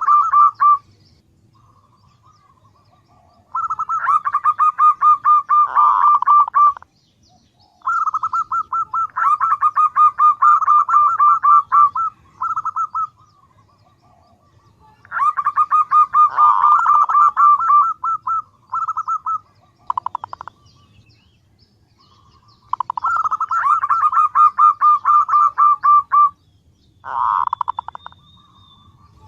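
Female zebra dove (perkutut) calling: bouts of rapid, evenly pulsed cooing notes a few seconds long, repeated after short pauses. It is the female's call to draw males, used as a lure call.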